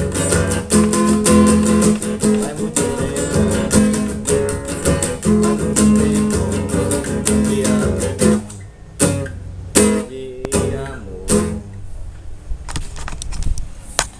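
Acoustic guitar strumming steadily as the song's instrumental ending, then four separate strummed chords with pauses between them, about nine to eleven and a half seconds in, before it fades.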